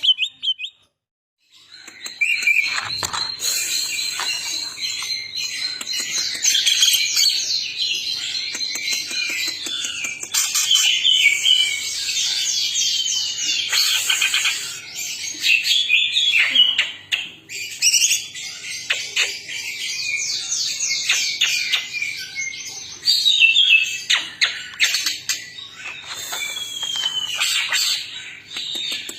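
Green leafbird (cucak ijo) singing a loud, continuous, varied chattering song of high trills and phrases. It starts after a brief silence near the beginning.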